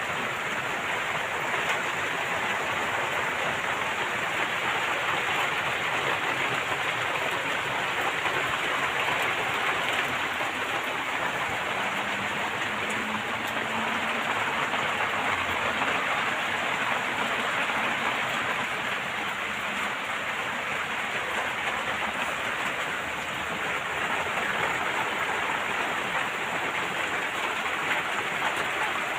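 Steady rain falling, an even, unbroken hiss of rain with no change in strength.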